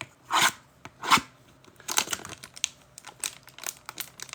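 Plastic wrapper of a trading-card hanger pack tearing, two short rips, then crinkling with many small crackles and ticks as it is pulled open and handled.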